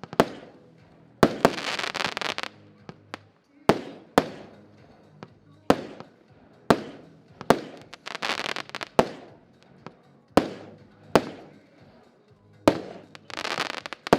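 Xplode Scratch consumer fireworks battery (cake) firing its shots: sharp bangs roughly once a second, each fading off. Three of the shots are followed by about a second of dense crackling.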